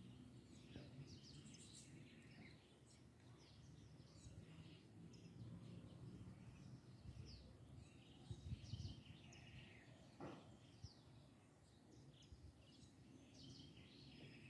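Faint chirping of small birds, many short high chirps scattered and overlapping, over a low background hum.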